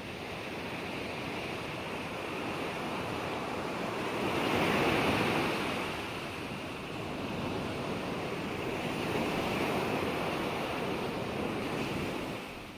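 Ocean waves breaking and washing on the shore: a steady surf wash that swells with a larger breaker about five seconds in and another around ten seconds, easing off near the end.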